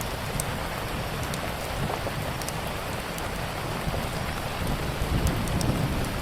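Steady rain with a low rumble underneath, and a few sharp, scattered crackles and pops of a wood fire.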